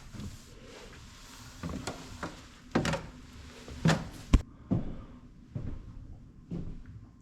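Footsteps on old wooden floorboards in a small, echoing room, one dull thud about every second. A single sharp wooden knock a little past four seconds is the loudest sound.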